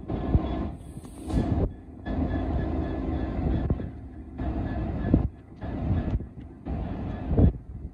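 GBRf Class 66 diesel locomotive with its two-stroke EMD V12 engine working as it slowly moves a long train of loaded box wagons, with low engine rumble and wheel-on-rail noise. The sound comes and goes in uneven stretches, breaking off sharply several times.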